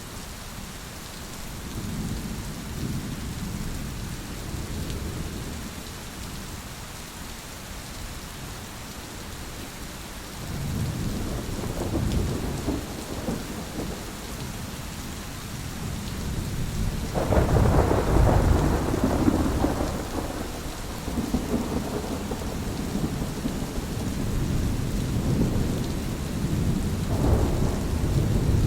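Thunderstorm: steady rain hissing, under repeated deep rolls of thunder. The loudest is a sharp crack about 17 seconds in that rumbles on for a few seconds, and more rolls follow near the end.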